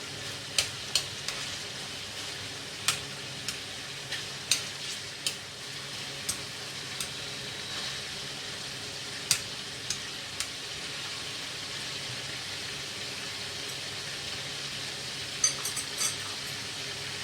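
Pieces of duck frying in hot oil in a pan, a steady sizzle with scattered sharp clicks and pops, several close together near the end.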